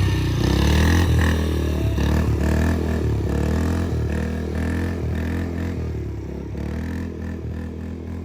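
Small single-cylinder four-stroke engine of a kids' dirt bike or mini quad running under throttle, its pitch rising and falling about once a second, growing fainter over the last few seconds as it moves away.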